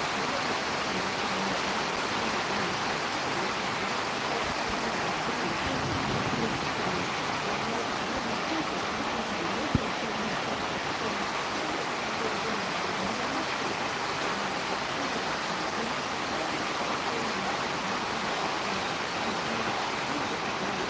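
Steady rushing noise of storm wind, even and unbroken, with one sharp click a little under ten seconds in.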